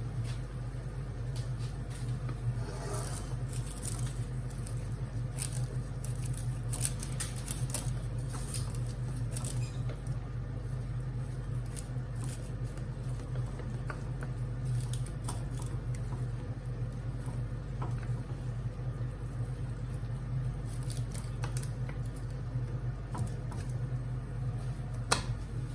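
Vegetables cooking in their own juices in a pan, giving off scattered faint crackles and pops over a steady low hum.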